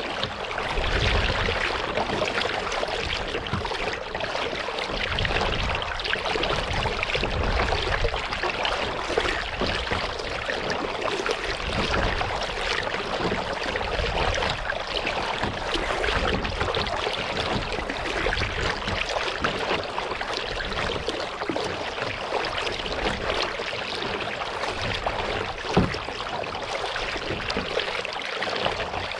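Kayak paddling: paddle blades dipping and water trickling and washing along the hull in a steady wash, with a single sharp knock about 26 seconds in.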